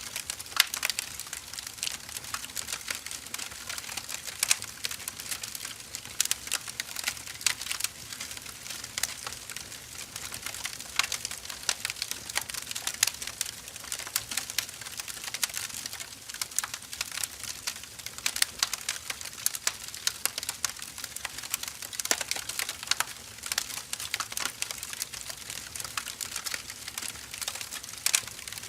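Firewood burning in a fire, crackling with a dense, irregular run of small sharp pops and snaps over a soft hiss.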